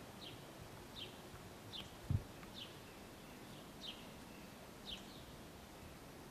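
A bird repeating a short, falling chirp about once a second over a faint, steady background hiss. A single low thump about two seconds in.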